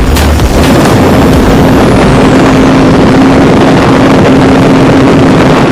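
Vehicle engine running steadily at road speed, a constant drone mixed with wind and road noise buffeting the microphone.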